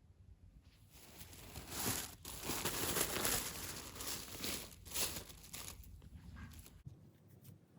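Crinkling and rustling of something being handled, loudest in the middle few seconds and easing off near the end.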